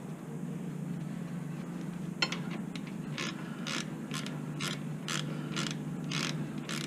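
Extendable Stanley hand ratchet backing out a bolt on a car's rear brake caliper: a regular ratcheting rasp about twice a second, starting a couple of seconds in.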